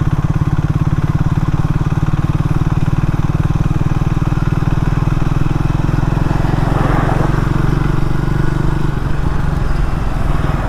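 Triumph Speed 400's single-cylinder engine running steadily at low revs in third gear at about 20 km/h up an incline, close to the lowest speed at which it pulls cleanly without lugging. A brief rushing noise swells and fades about seven seconds in.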